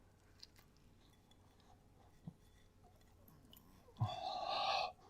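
Quiet chewing of a mouthful of microwave beef and bean burrito, with faint mouth clicks and a soft thump partway through. Near the end comes a louder rustle lasting just under a second, which then stops abruptly.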